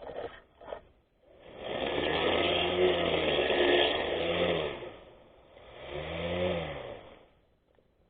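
24V brushless electric grass cutter running in two bursts, its motor pitch rising and falling as it speeds up and slows.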